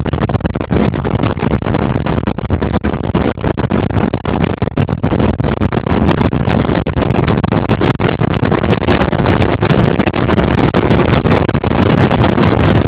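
A boat underway, with its engine and water noise making a loud, steady rush. Wind buffets the phone's microphone, adding frequent crackles.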